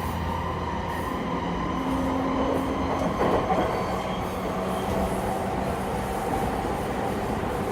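E231 series commuter train running, heard from inside the car: a steady rumble of wheels on rail with the hum of its Mitsubishi IGBT VVVF inverter and traction motors. A short louder rattle comes about three seconds in.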